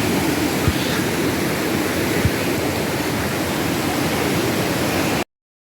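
Steady rushing of water at a spring-fed river, with two short low thumps. The sound cuts off abruptly about five seconds in.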